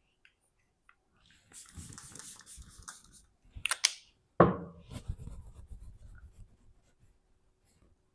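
Rustling and handling of small objects, with a few sharp clicks and a sudden loud knock about four and a half seconds in.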